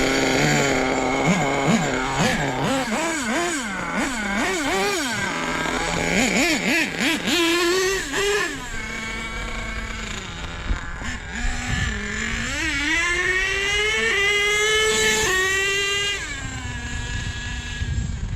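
Small nitro RC truck engine revving in quick up-and-down blips, then climbing steadily in pitch as the truck speeds up, before dropping off sharply about two-thirds of the way through.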